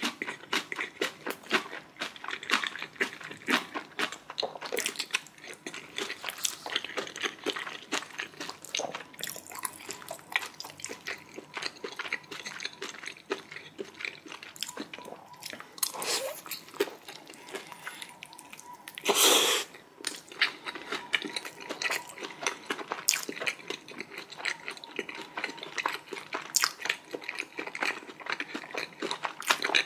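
Close-miked chewing of a person eating: continuous wet, clicky mouth sounds with some crunch. About two-thirds of the way through there is one short, louder rush of noise.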